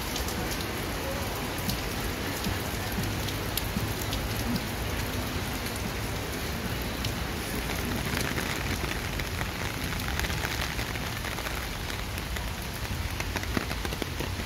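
Steady rain falling on a wet paved path and leafy trees, an even hiss dotted with many sharp drop ticks close by.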